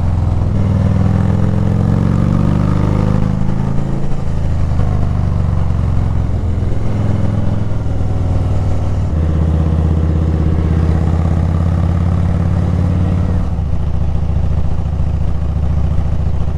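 Harley-Davidson V-twin motorcycle engine running under way on the road. Its pitch shifts with throttle changes in the first few seconds, then holds steady from about nine seconds in, changing again near the end.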